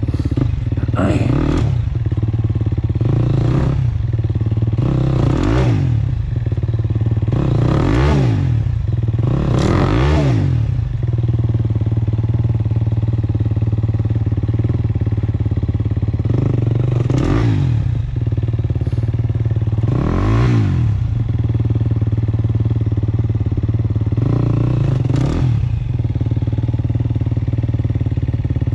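Two-stroke single-cylinder engine of a 1996 Maico 440 dirt bike running under riding load, its revs rising and falling again and again as the throttle is worked. The rev swells come close together in the first ten seconds, then a few more follow later.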